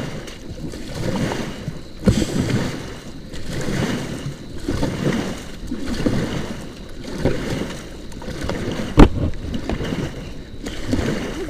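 Rafting crew paddling forward together: paddles dipping and pulling through river water in a steady rhythm, about one stroke a second. A sharp knock about two seconds in and a louder one about nine seconds in, typical of a paddle striking the raft or another paddle.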